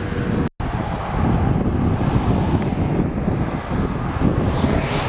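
Car on the move with steady road and wind noise, heavy in the low end and buffeting the microphone. The audio drops out completely for a split second about half a second in.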